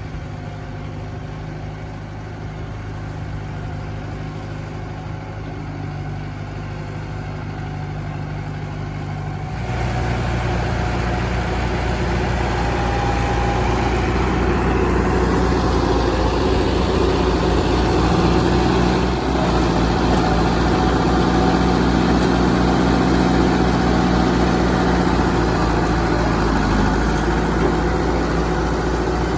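International Harvester 574 tractor engine running steadily. About ten seconds in it abruptly becomes louder and fuller, and it holds that level.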